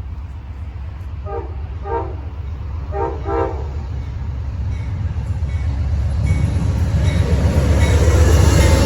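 Amtrak passenger train approaching: four brief horn blasts in two pairs, distant and faint, then the rumble of the train growing steadily louder as it nears.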